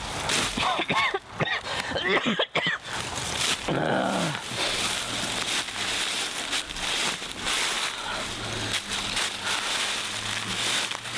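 Animal-like vocal calls: a few wavering whines in the first few seconds, then a lower falling growl, over a steady background hiss.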